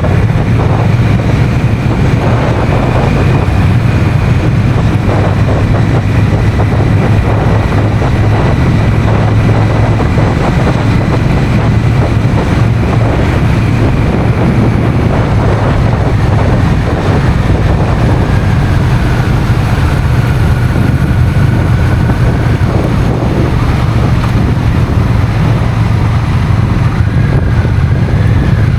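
Honda CMX1100 Rebel's parallel-twin engine running at a steady cruise, with wind rushing over the microphone.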